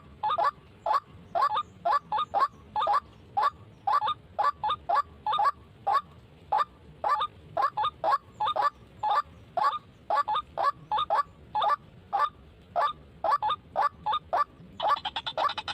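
White-breasted waterhen calling, short honking calls repeated about three a second. Music comes in about a second before the end.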